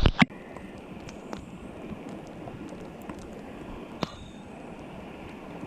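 Steady rushing of a small stream's flowing water, with two sharp knocks at the very start and a lighter click about four seconds in.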